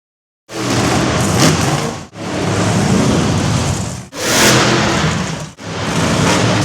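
Monster truck engines running loud in a series of short clips cut one after another, each starting and stopping abruptly. Heavy engine rumble comes with a wash of noise.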